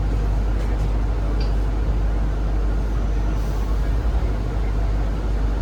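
Interior noise of a Zhongtong hybrid range-extender city bus: a steady low rumble with running noise, and a few faint ticks.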